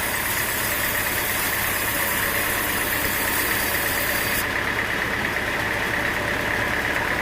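Sawmill machinery running steadily: an even engine hum with a steady high whine over it. A high hiss above it drops away about four and a half seconds in.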